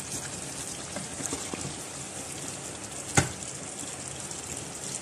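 Chicken karahi sizzling in hot oil in a pot as it is stirred with a wooden spatula: a steady hiss, with one sharp knock about three seconds in.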